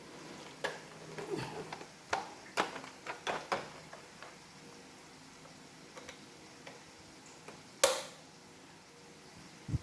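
Hard plastic parts of an iRobot Roomba vacuum being handled and fitted together: a quick run of sharp clicks and knocks in the first few seconds, a few faint ticks, then one loud click near the end.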